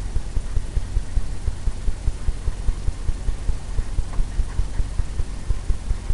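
Soft blender brush tapped rapidly against a stretched canvas, a quick steady run of low, drum-like thumps several times a second as the wet paint is blended in.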